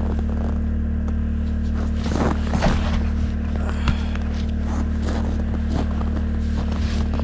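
An engine runs steadily with a low, even hum. A few short scrapes and footsteps sound over it, most of them between about two and four seconds in.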